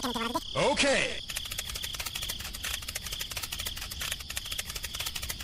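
Insects chirring in a rapid, steady trill, with a faint high tone running through it. About a second in, a squeaky, high-pitched voice says "okay" over it.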